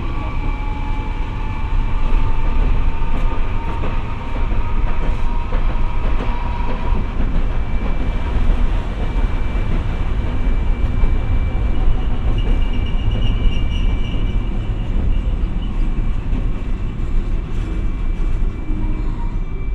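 Hiroden 700-series streetcar running along its track: a steady rumble of wheels and running gear with a constant high tone. A faint whine rises slowly in pitch over the first several seconds.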